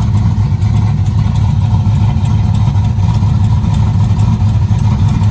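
Pickup truck's engine running with a loud, steady low rumble.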